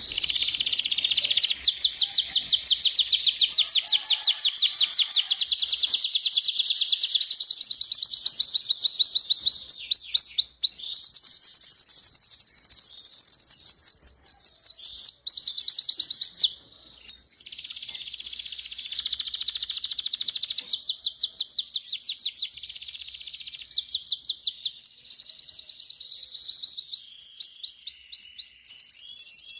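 Domestic canary singing a long song of rapid, high-pitched rolling trills, one trill run into the next, with short breaks about halfway through and again near the end.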